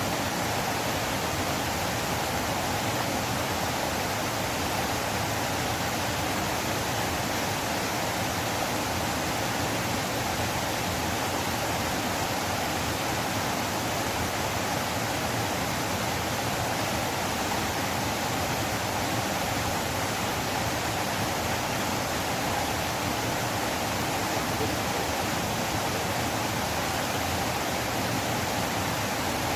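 Flowing river water, a steady rushing hiss that does not change.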